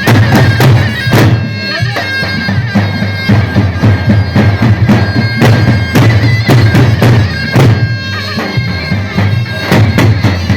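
Davul and zurna playing a halay dance tune: the zurna's loud held notes over heavy, frequent davul drum strikes.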